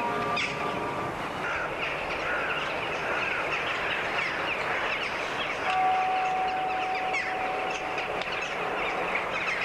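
Many birds chirping and twittering at once, short rapid chirps overlapping in a dense flock chorus. A single steady held tone joins about halfway through.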